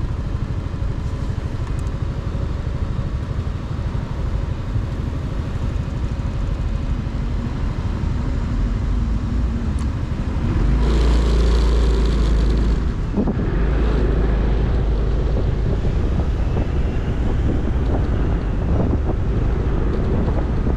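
Motorcycle engine running on the road with wind buffeting the microphone. About halfway through, the rumble and wind rush grow louder, with a bright hiss for a couple of seconds, then settle into a steady, louder rumble.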